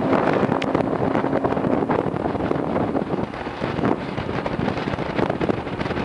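Wind buffeting the microphone on a moving boat, with the boat's motor running steadily underneath.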